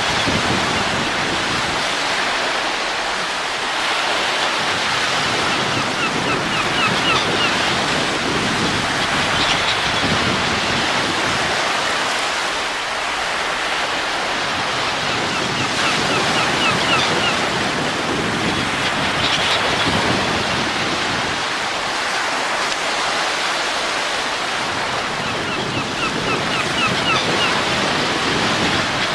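Steady wind noise that swells and ebbs slowly, a relaxation wind track. Faint short high chirps come three times, about ten seconds apart.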